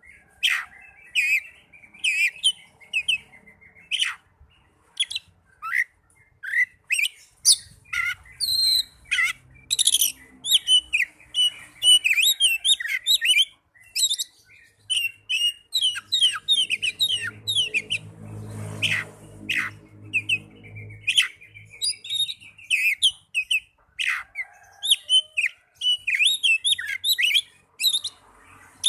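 Oriental magpie-robin (kacer) song: a dense, varied run of quick whistles, chirps and trills. A lower droning sound joins for a few seconds past the middle.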